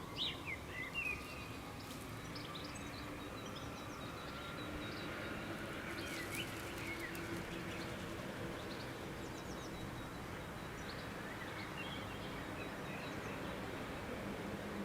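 Scattered short bird chirps and calls, loudest in a quick cluster about a second in, over steady outdoor background noise with a faint low hum.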